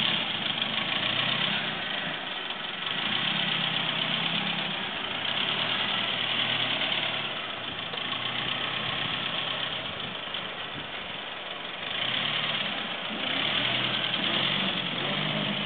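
1934 Morris 10's four-cylinder engine running as the car pulls away and drives slowly, its sound swelling and fading several times.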